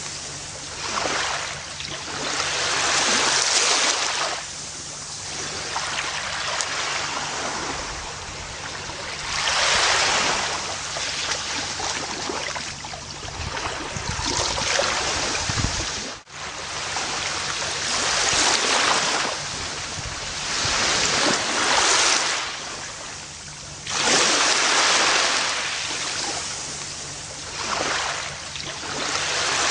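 Gentle ocean waves washing onto a beach, the surf swelling and fading every few seconds, with a brief dropout about halfway through.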